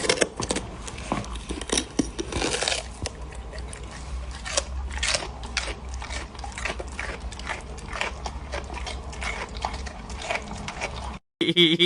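Irregular clicks and crunches over a low steady hum, which cut off abruptly near the end.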